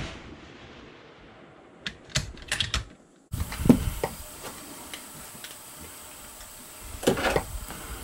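The echo of a rifle shot fading away, followed by a quick run of sharp metallic clicks and clacks, typical of a rifle bolt being worked. The background changes abruptly to a louder hiss with a few more knocks, the strongest about seven seconds in.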